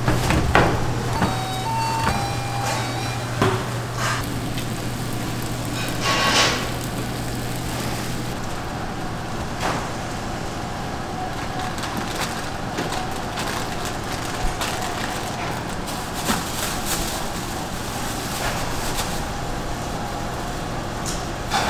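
Working-kitchen noise: scattered knocks and clatter over a steady machine hum that stops about eight seconds in.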